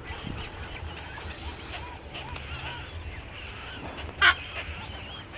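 Many birds chirping with short, repeated calls, and one much louder, harsh squawk about four seconds in.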